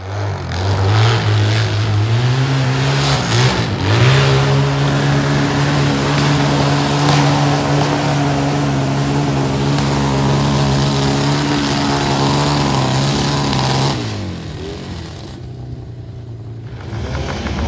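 Vintage motorcycle engine running hard under load on a hillclimb, its pitch dipping and climbing again about three to four seconds in, then held steady at high revs. About fourteen seconds in the engine note falls away and goes quieter, then picks up again near the end.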